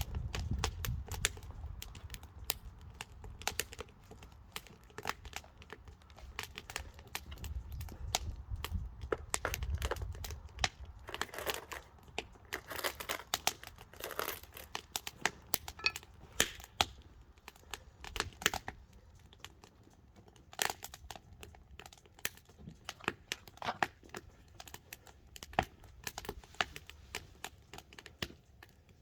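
Log firewood burning, crackling and popping in irregular sharp snaps, with a low rumble underneath for the first ten seconds or so.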